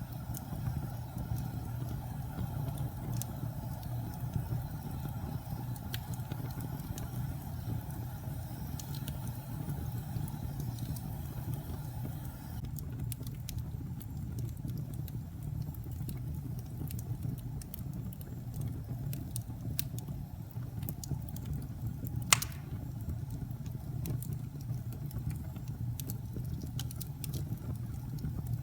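Fire burning in a fireplace: a steady low rumble with scattered faint crackles and one sharp, louder pop about three-quarters of the way through.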